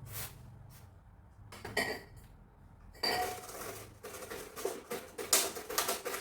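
Hard objects clinking and clattering, like dishes or metal utensils. First come a couple of separate clinks with a short ring. From about three seconds in there is a busy run of quick clattering knocks.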